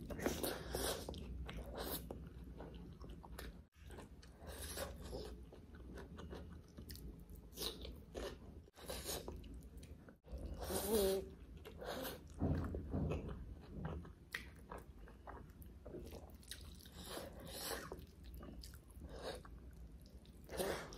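A person chewing and biting butter chicken and rice eaten by hand, with irregular clicks of the mouth.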